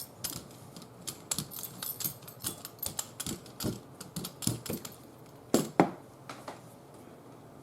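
Quick, irregular clicking and tapping from hands working with craft tools on a tabletop, with two louder knocks a little after five seconds in.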